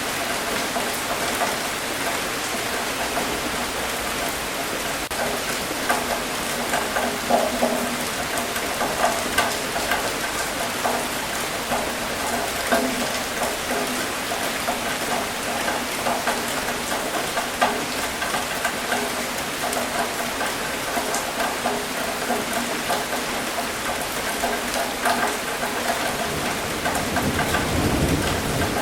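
Steady rain falling, with many separate drops striking close by. A low rumble of thunder builds near the end.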